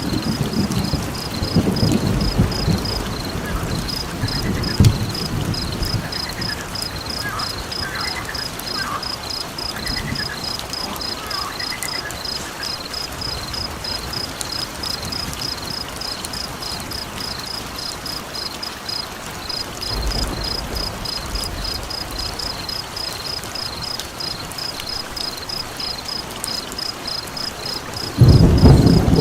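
Rain-and-thunder nature ambience. A cricket-like insect chirps in a fast, even rhythm, with a few short higher calls in the middle over a steady hiss of rain. Thunder rumbles at the start, briefly about two-thirds of the way through, and loudest near the end.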